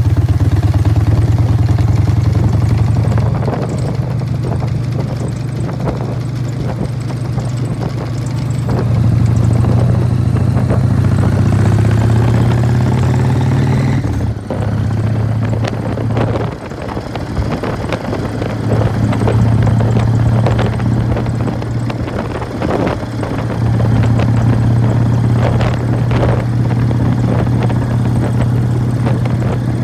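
1999 Harley-Davidson Fat Boy's Evolution V-twin running through Python mufflers while riding, with the clatter of its open primary drive. The engine note eases off twice about halfway through and then pulls again.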